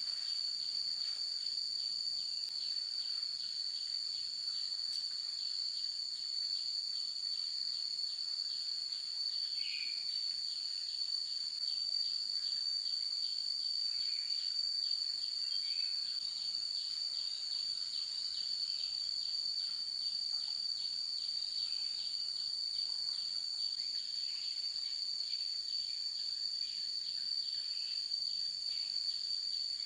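Steady high-pitched insect chorus, an unbroken shrill drone with a faint pulsing about twice a second beneath it.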